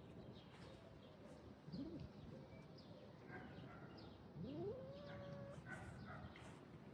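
A cat meowing faintly: a short call about two seconds in, then a longer meow about four and a half seconds in that rises and then holds its pitch.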